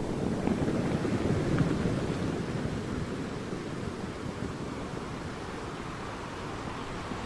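Sea waves washing onto a shore, a wave swelling in the first couple of seconds and easing off, with some wind on the microphone.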